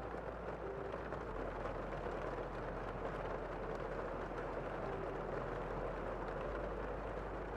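Steady rain falling outside a window, heard from inside a room as an even, muffled hiss.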